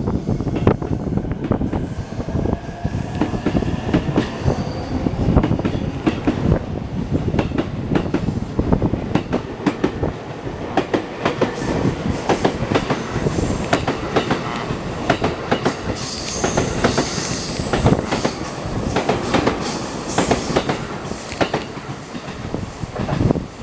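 A 15-car E231/E233-series electric commuter train pulling out and running past, its wheels clattering over rail joints and points. A faint rising whine sounds in the first few seconds, and the wheels squeal high-pitched about two-thirds of the way through.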